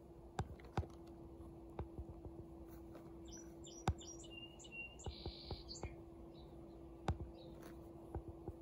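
A songbird chirping a short run of quick high notes and one held note about midway through. Scattered sharp clicks, the loudest sounds, and a faint steady hum run beneath it.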